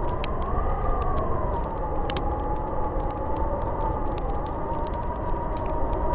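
Snowstorm wind howling: a whistling tone that rises in pitch within the first second, then eases down and holds steady, over a constant rushing noise, with scattered faint ticks.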